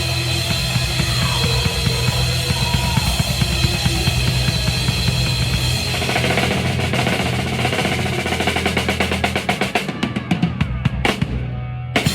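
Live band playing with the drum kit loudest: fast drum strokes grow quicker and louder through the second half into a drum roll. The sound then cuts off suddenly, and a few final hits follow near the end.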